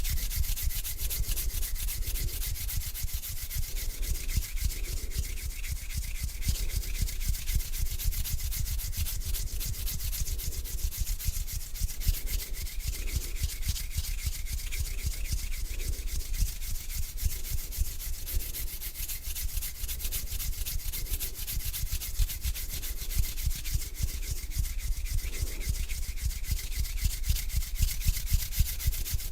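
Hands rubbing together close to the microphone, a steady dry swishing friction that keeps going without a break.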